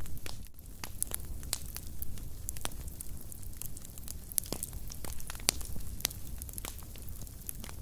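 Wood fire crackling: irregular sharp pops and snaps over a low, steady rumble of burning flames.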